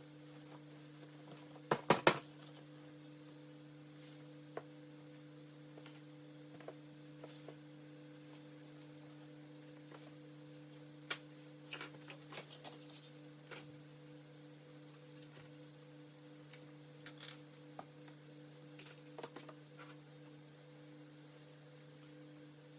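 A steady low electrical hum, with scattered light clicks and knocks over it; the loudest is a quick cluster of sharp knocks about two seconds in.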